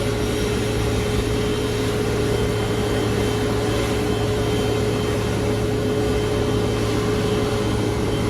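Steady drone of an idling jet airliner, with a constant whine over a low hum that does not change.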